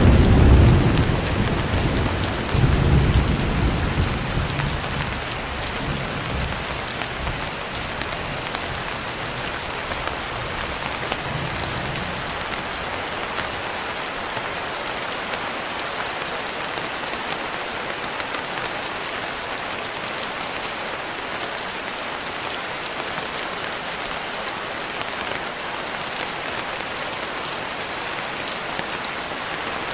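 Steady rain, with a rumble of thunder in the first few seconds that dies away, then only the even hiss of rain.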